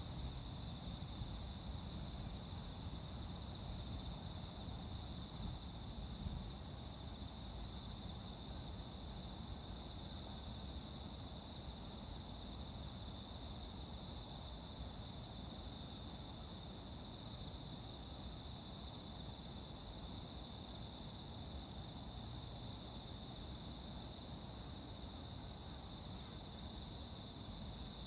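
A steady chorus of singing insects: a continuous high, even trill with a second band above it, unbroken throughout, over a low background rumble.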